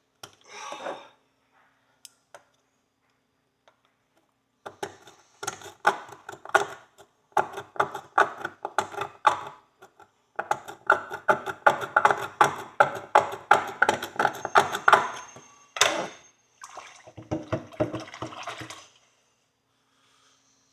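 Quick, repeated scraping and scrubbing strokes of a hand tool working caked gunk out of an old steel horseshoe in bleach water, with wet clicks. The strokes come in runs starting a few seconds in and are loudest in the middle. They stop shortly before the end.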